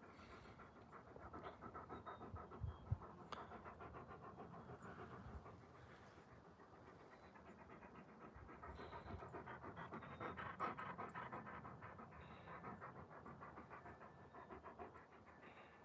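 Alaskan Malamute panting fast and rhythmically, in two spells, the second louder, with one sharp click about three seconds in.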